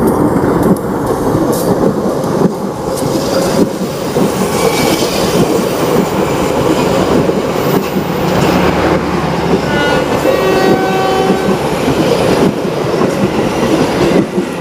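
Passenger train passing at close range: a diesel-electric locomotive going by, then the coaches' wheels clattering over the rail joints. A brief squeal of wheels on the curve comes about ten seconds in.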